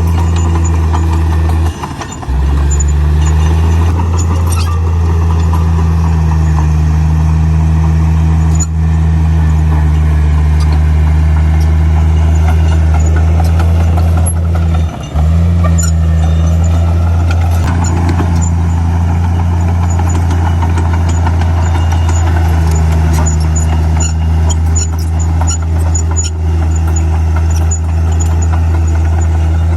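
Heavy diesel engine of earthmoving machinery running steadily as a deep, constant drone, which drops out briefly twice: about two seconds in and about halfway through.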